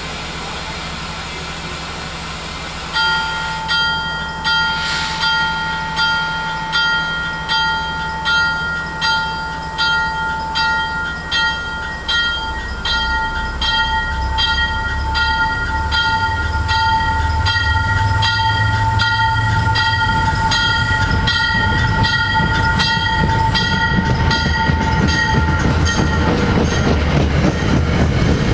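MBTA commuter rail train with its warning bell ringing steadily, about one and a half strikes a second. The bell starts about three seconds in and stops shortly before the end, while the low rumble of the train's wheels grows louder from about halfway as the cars roll past close by.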